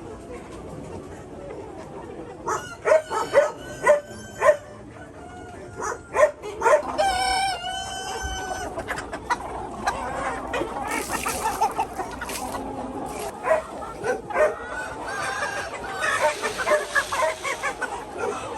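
Chickens clucking, with a rooster crowing once about seven seconds in; the flock's overlapping calls grow busier in the second half.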